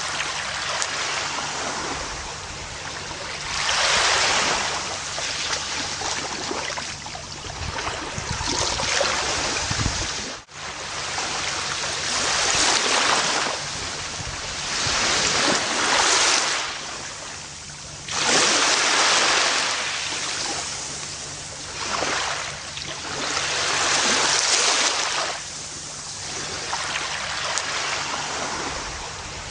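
Gentle ocean waves breaking and washing up a beach, the surf swelling and fading every few seconds, with a brief drop in the sound about ten seconds in.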